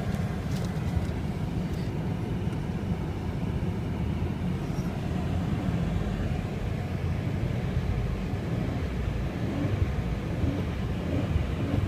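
2002 Buick Century's 3.1-litre V6 engine running steadily and evenly, a smooth, good-running engine.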